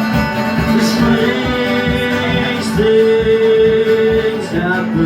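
Live band music: a steady beat with guitar and long held melody notes over it.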